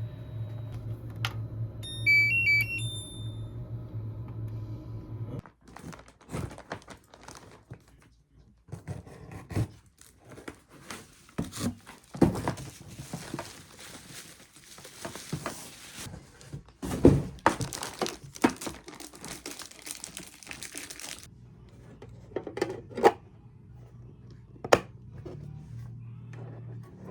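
Household handling noise: irregular rustling and crinkling with scattered knocks and clicks as objects are handled. A short electronic melody of beeps sounds about two seconds in, over a steady low hum.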